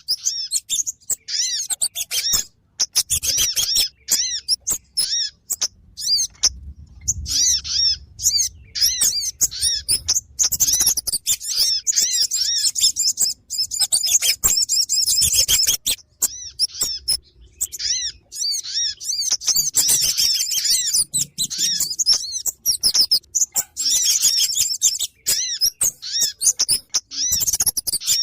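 Bird-trapping lure call recording for kemade and sogon birds: a busy stream of rapid, high chirps and twitters in dense bursts broken by brief pauses.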